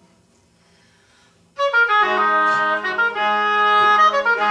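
Oboe playing a legato phrase of sustained notes, entering loudly about a second and a half in after a quiet pause, with a lower note held steadily underneath.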